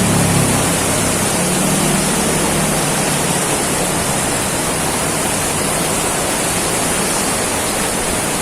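Heavy tropical downpour: a loud, steady, dense hiss of rain. A low engine hum fades out over the first two seconds or so.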